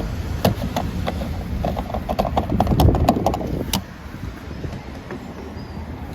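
A quick run of sharp clicks and knocks, loudest about three seconds in and stopping just before four seconds, from handling at a fuel pump before refuelling, over a low steady rumble.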